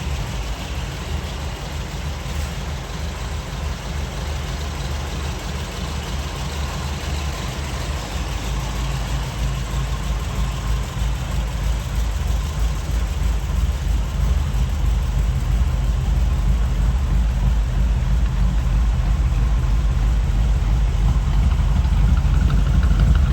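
A 1949–53 Ford flathead V8 idling steadily, growing gradually louder over the second half.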